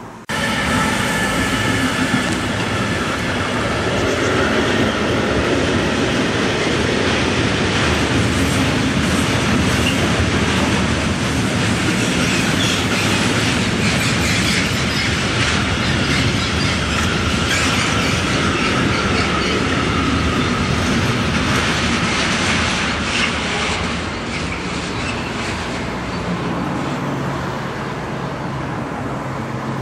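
Freight train of covered steel wagons and tank wagons passing close by: a steady rumble and clatter of wheels on the rails, with high wheel squeal at times. It grows quieter about 24 seconds in as the last wagons go by.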